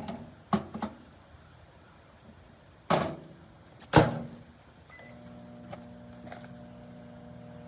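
Microwave oven being loaded and started: a few light clicks, then two loud knocks about a second apart as the door is handled and shut. A short beep follows, and the oven starts running with a steady hum.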